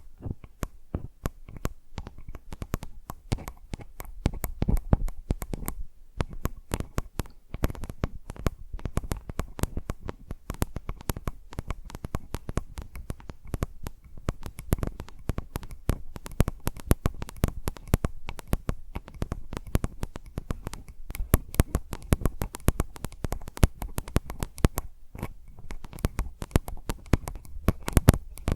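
Fingers tapping directly on a Zoom H4n recorder's microphones: rapid, irregular taps, each with a dull low thump from the mic capsules.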